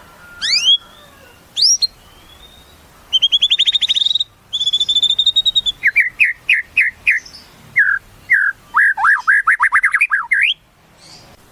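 White-rumped shama (murai batu) singing a varied song. It opens with a few rising whistles, moves into two fast rattling trills, then a run of quick repeated notes, and ends on a rising whistle.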